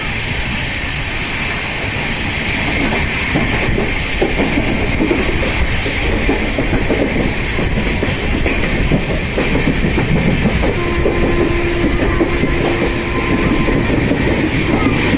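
Udyan Express passenger train running, its wheels clattering over the rails under a steady rumble. A steady tone rises above the clatter for about three seconds, some ten seconds in.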